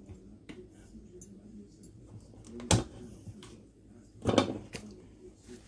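Kitchen handling sounds as seasoning containers are picked up, opened and set down: scattered light taps and clicks, one sharper knock a little under three seconds in, and a short cluster of knocks past four seconds.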